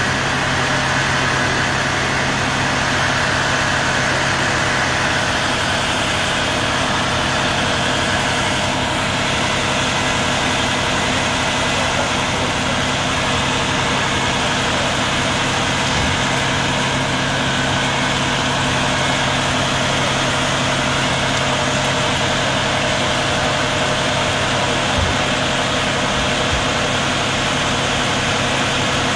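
A vehicle engine idling steadily close by, a constant low hum with no change in speed.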